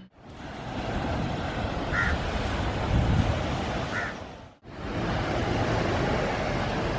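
Surf washing onto a sandy beach with wind buffeting the microphone, an even rushing noise that cuts out abruptly for a moment about four and a half seconds in.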